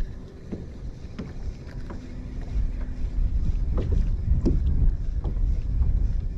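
Wind rumbling on the microphone over water moving against a kayak, getting louder about halfway through, with a few scattered small knocks.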